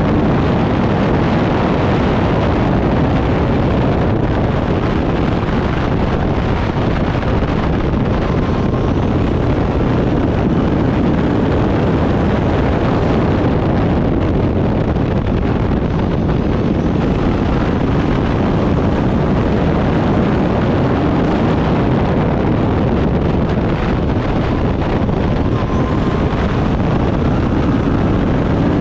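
Turbocharged Backdraft Cobra race car's engine running hard at racing speed, with wind noise on the microphone. It is loud and steady, with engine pitch rising a few times.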